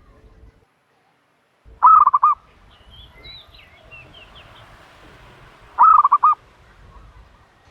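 Turtle dove calling: two short bursts of four or five quick, rapid cooing notes, about four seconds apart. Faint high chirps come in between them.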